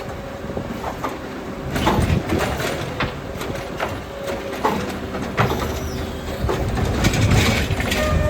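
Heil Rapid Rail automated side-loader garbage truck running, with several clanks and knocks over the steady engine noise.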